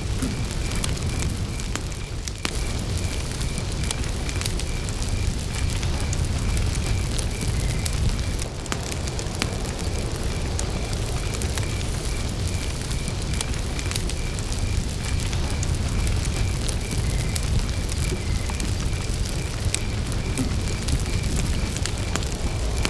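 Wood campfire crackling with scattered sharp pops over a low rumble of flame, while a cricket chirps in a steady, even pulse.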